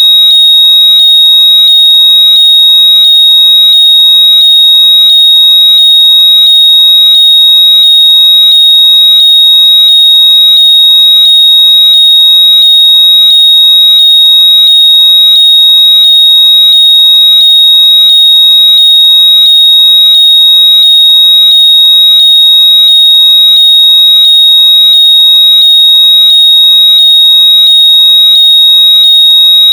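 Very loud, steady, high-pitched electronic tone with a faint pulse about one and a half times a second: a synthetic locator noise meant to be heard coming out of lost earbuds.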